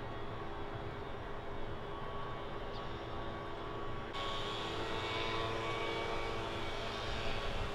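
Steady engine drone over a low rumble, with several held tones. About four seconds in, a higher hiss comes in suddenly.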